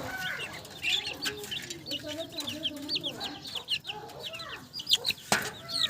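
A flock of budgerigars chattering, with a dense run of quick, high chirps, over lower, slower rising-and-falling calls from other birds. A single sharp click comes near the end.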